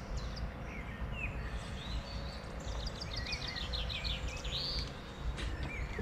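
Small birds singing: scattered chirps and short whistles, with a quick run of repeated notes between about three and four and a half seconds in, over a low steady background rumble.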